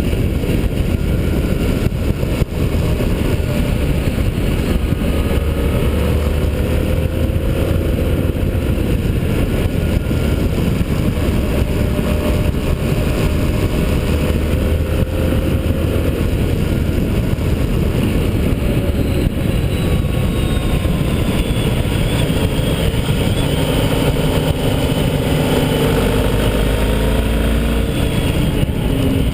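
Motorcycle engine at speed on a race track, heard from the bike under a steady rush of wind noise, its note rising and falling with the throttle and gear changes. Near the end the engine note comes through more clearly and lower in pitch as the bike slows.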